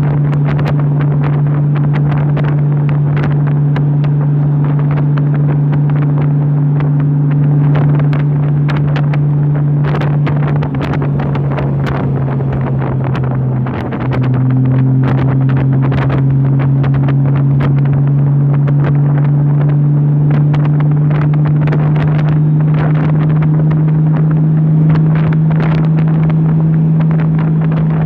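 Honda motorcycle engine running at a steady cruise of about 60 mph, with heavy wind buffeting on the microphone. The engine note dips briefly about fourteen seconds in, then settles slightly higher.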